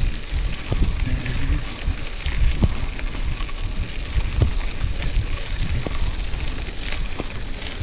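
Wind buffeting the microphone and tyre noise while riding a mountain bike over rough ground, with scattered knocks and rattles from the bike.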